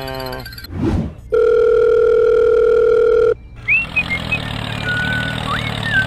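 A string of cartoon-style sound effects: a falling tone fading out, a short thud about a second in, then a loud steady beep for about two seconds that cuts off sharply. After the beep comes a low engine-like hum with short whistled chirps over it.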